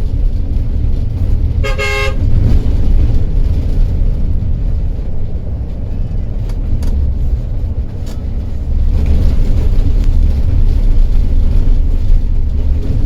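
Steady low rumble of a coach driving along a highway, heard from inside, with one short horn blast about a second and a half in.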